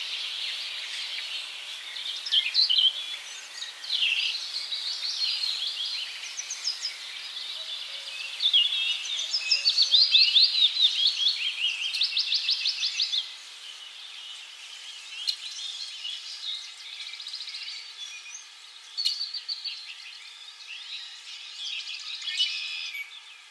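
Birds chirping and singing, a chorus of short calls and quick trilled runs of repeated notes. They are loudest from about eight to thirteen seconds in, then thin out to fainter, scattered chirps.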